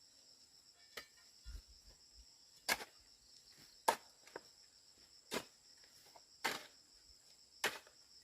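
A steady high chirring of insects runs throughout. Over it come about eight sharp knocks, roughly one a second, from a hand tool striking into the ground while digging.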